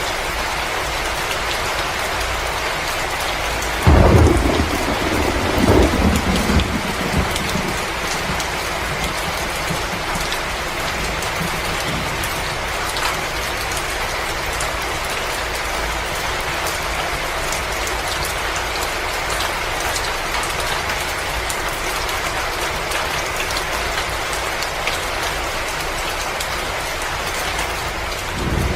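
Steady rain-like hiss with faint scattered crackles, and a low rumble of thunder that starts suddenly about four seconds in and rolls on in a few swells for about three seconds.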